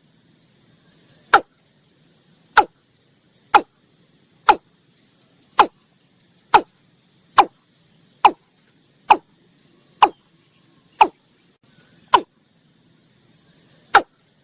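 Watercock calling: a string of short notes, each falling quickly in pitch, repeated about once a second, with a slightly longer gap near the end. Insects trill faintly behind.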